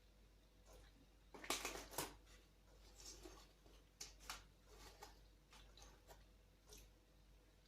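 Soft clicks and rustling, as of something small being handled, with a louder crackling cluster about one and a half to two seconds in.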